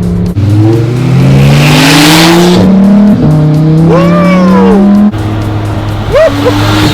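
Audi R8's V10 accelerating hard through the gears: the engine note climbs, breaks briefly at an upshift about two and a half seconds in, climbs again, then drops to a lower steady note a little after five seconds.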